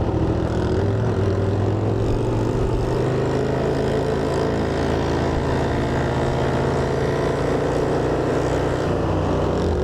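Single-cylinder Honda motorcycle engine running steadily.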